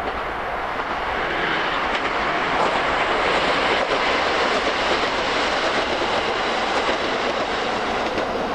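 Train running past on the rails: a steady rush of wheel-on-rail noise that builds over the first few seconds, then eases slightly near the end.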